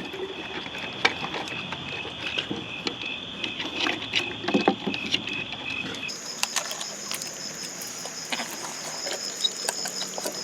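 Raccoons handling toys and food: scattered small clicks, taps and rustles, over a steady high chirring of night insects. Some six seconds in, the insect tone jumps abruptly to a higher pitch.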